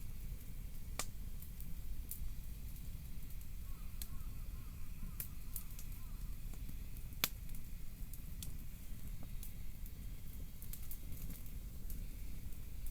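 Wood campfire crackling, with sharp pops at irregular intervals, the loudest about a second in and about seven seconds in, over a steady low rumble.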